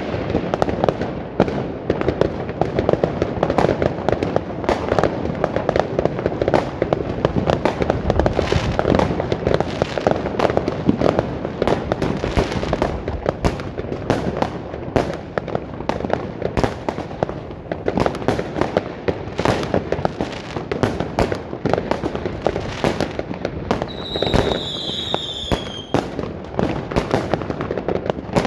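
Many New Year's fireworks and firecrackers going off at once: a dense, unbroken barrage of bangs and crackling. Near the end, a whistling firework sounds for about two seconds, falling slightly in pitch.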